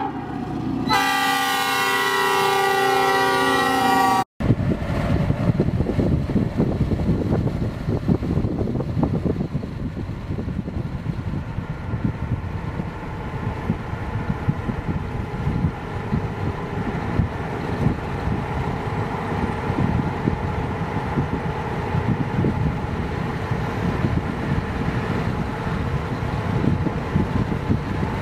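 Diesel locomotive air horn sounding a held blast of several notes together, cut off abruptly about four seconds in. After the cut comes the steady rumble and clatter of a freight train rolling past.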